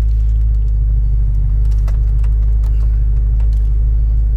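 Supercharged BMW M3 running through a Remus Race exhaust, making a steady, deep, even exhaust rumble with no revving.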